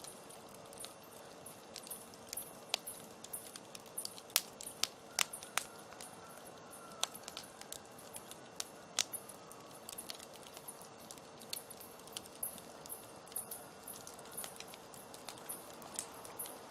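Campfire crackling: irregular sharp snaps and pops, most frequent in the middle stretch, over a faint steady hum.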